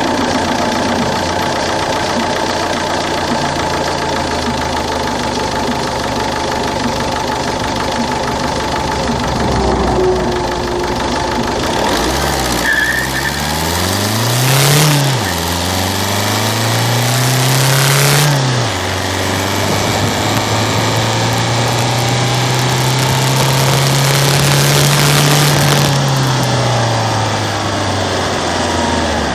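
Citroen C3's 1.4 HDi DV4TD four-cylinder turbodiesel idling steadily, then twice briefly revving up and dropping back, then rising and holding higher revs for about six seconds before settling back to idle.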